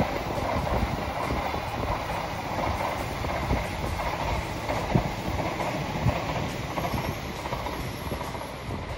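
A Shinkansen bullet train running past: a steady noise of the train running, with a few short knocks about three and a half, five and six seconds in.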